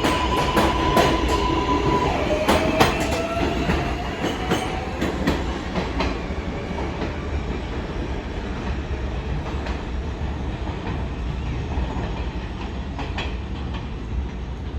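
R188 subway train on the elevated line moving off: a steady wheel squeal that stops about two seconds in, then a slowly rising traction-motor whine, wheels clacking over rail joints and a continuous rumble.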